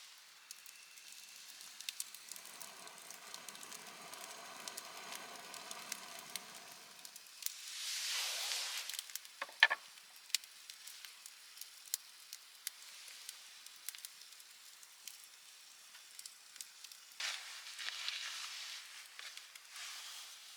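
Wood fire crackling, with scattered sharp pops and a soft sizzle. Two rushes of noise come about eight and seventeen seconds in, and a short metallic clink rings near ten seconds.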